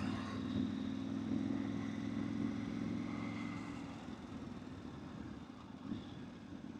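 Motorcycle engine running at a steady low note over road noise, fading somewhat about four seconds in.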